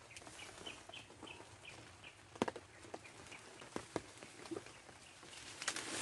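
A bird gives a quick run of about eight short, high chirps, then twigs and dry leaves snap and crackle as a snared bird is handled in the undergrowth, with a louder rustle near the end.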